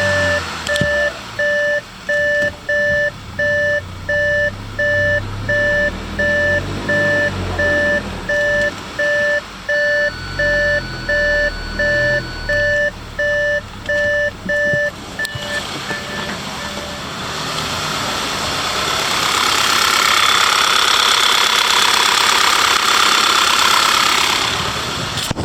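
Audi A8 Hybrid's 2.0 TFSI four-cylinder engine (CHJ) running, with an in-car warning chime beeping steadily about three times every two seconds until it stops a little past the midpoint. In the last third a rushing noise swells and holds.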